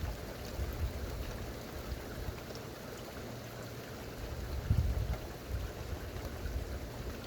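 Rain falling steadily as an even hiss, over a low uneven rumble that swells briefly about five seconds in.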